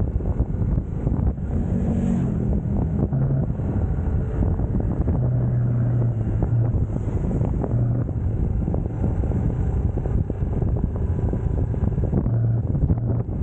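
UM Scrambler X motorcycle engine running under way, its pitch climbing briefly in the first few seconds and then holding steady, with heavy wind rushing over the camera microphone.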